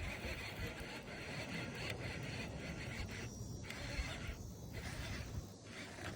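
Fishing reel being cranked in against a hooked bass, a faint steady whir that breaks off briefly three times in the second half.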